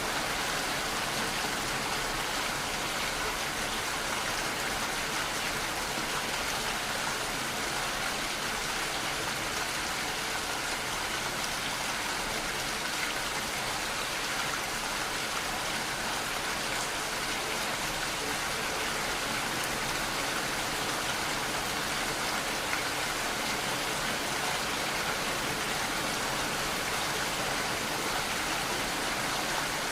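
Steady rainfall, a continuous even hiss of rain falling on surfaces, with no thunder.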